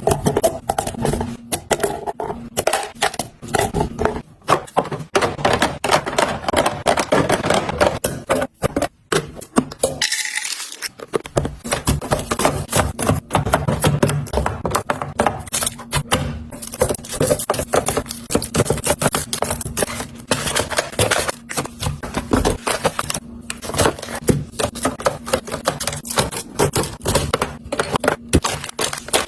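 Food packaging and plastic containers being handled and set down, a dense run of clicks, taps and rustles with a brief lull about ten seconds in.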